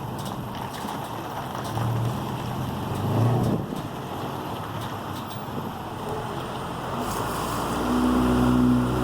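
Car on the road: engine and tyre rumble, with a couple of brief low hums in the first half and a steady engine hum growing louder over the last two seconds.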